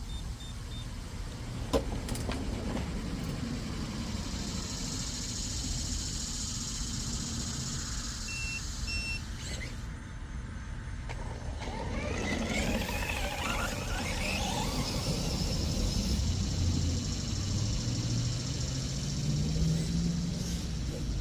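Radio-controlled truck's brushless electric motor whining as the truck drives, its pitch rising and falling with the throttle from about halfway through, over steady outdoor noise.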